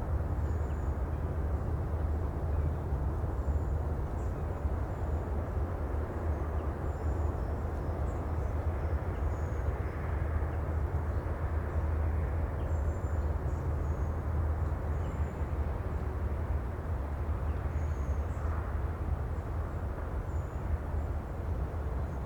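Steady low rumble of sea ambience: a constant, even surf wash with no separate wave breaks, and faint high chirps now and then.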